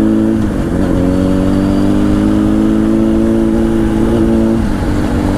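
Honda CBR1000 inline-four with a Two Brothers exhaust pulling under light acceleration, its pitch climbing slowly and dipping briefly twice, about half a second in and again near the end, over low wind rumble.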